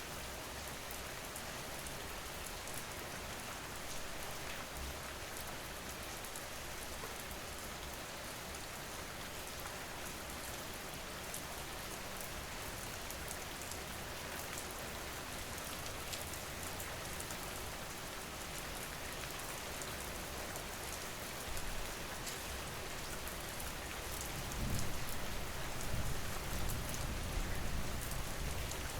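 Steady rain falling, a dense even hiss with scattered drop ticks. A low rumble swells in over the last few seconds.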